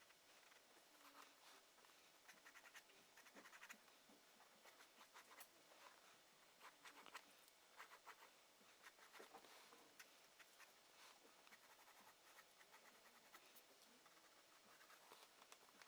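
Faint scratching of a drawing tool on paper in short, irregular strokes, as lines are sketched.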